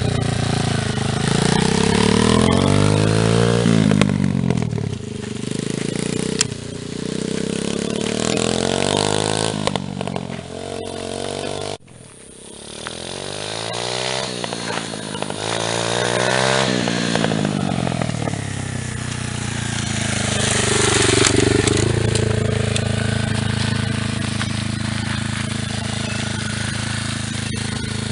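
110cc pit bike engine running and being revved, its pitch rising and falling again and again. The sound drops away suddenly about twelve seconds in, then builds back up.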